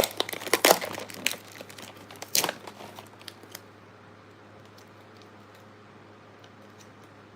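Food packaging crinkling and crackling as it is handled, in a quick run of sharp crackles that stops about three and a half seconds in, leaving a faint steady hum.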